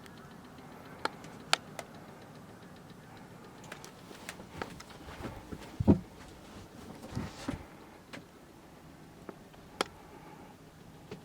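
Scattered sharp clicks and knocks, with the loudest thump about six seconds in, over a low steady hum.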